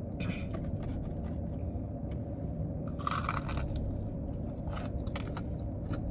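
Close-up chewing and crunching of fried chicken gizzards and livers, with short crisp crunches scattered throughout and a louder burst about three seconds in. A steady low hum runs underneath.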